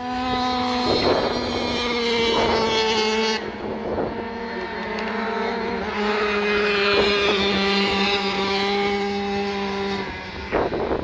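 Dirt bike engines running at steady high revs. The pitch steps down once about a third of the way in, then holds until the engine note drops away near the end.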